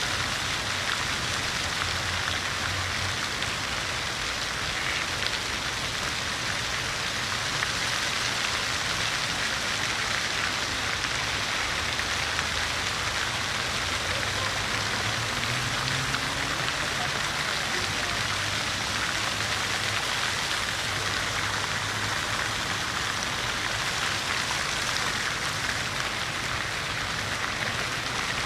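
City fountain water splashing steadily in an even rush. Beneath it runs a low engine hum from passing traffic, which rises in pitch about halfway through.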